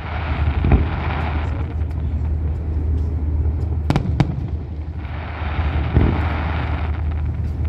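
Fireworks going off: sharp single bangs, twice in quick succession near the middle, and two stretches of dense crackling near the start and toward the end, over a steady low hum.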